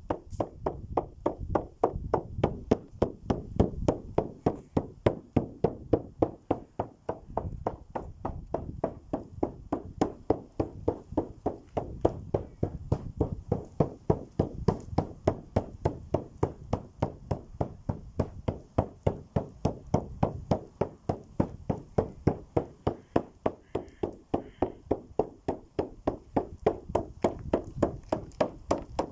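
A steady, even beat of dull strikes, about three a second, keeping one unbroken rhythm throughout.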